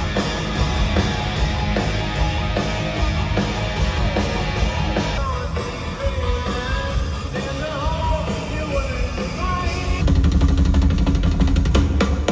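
Rock music with a full band and drum kit. About five seconds in the drums drop back under a bending melody line, and they come back in louder about ten seconds in.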